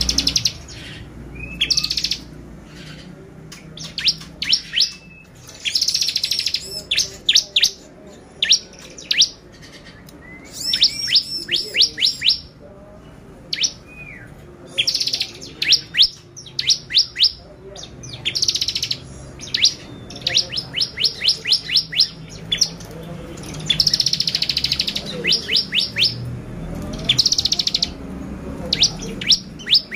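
Bar-winged prinia (ciblek) in full song: repeated phrases of quick, sharp, high-pitched notes, some run together into dense buzzy trills, each phrase about a second long with short pauses between.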